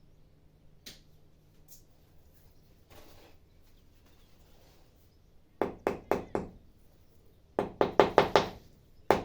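A small rubber mallet tapping stones into tile adhesive to bed them in the wall: a quick run of about four taps about five and a half seconds in, then a faster run of about six near the end.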